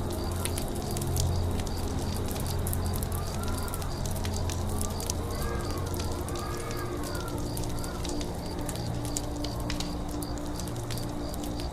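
Campfire crackling with frequent sharp pops over a low rumble. A high chirp repeats evenly two or three times a second throughout, and a few short arched whistled bird calls come in the middle.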